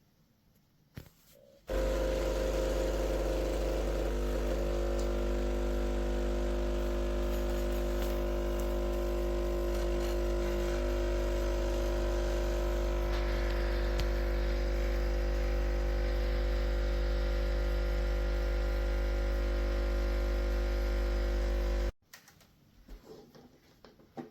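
Espresso machine's pump running steadily with a loud, even hum, switching on about two seconds in and cutting off suddenly near the end after about twenty seconds.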